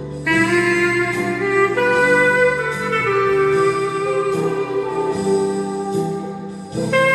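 Weril 13-key clarinet playing a slow hymn melody in long held notes over a steady accompaniment. A phrase comes in just after the start and breaks off briefly near the end, before the next one begins.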